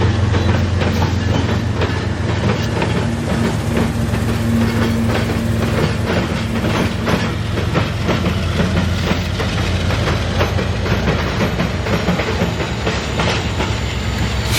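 Train rolling past at close range: wheels clicking over rail joints above a steady low rumble.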